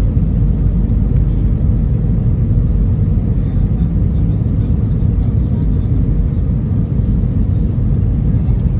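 Steady low rumble of engine and airflow noise inside an Airbus A320's cabin during the descent toward landing.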